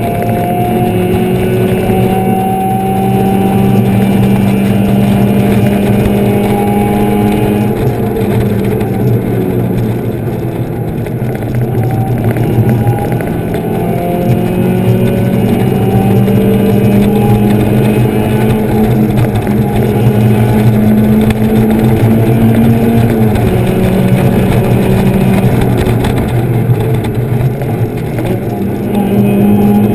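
Mazda Miata's four-cylinder engine running hard on track, heard from inside the open cockpit. Its pitch climbs slowly through each gear and drops back at the shifts, a few times over.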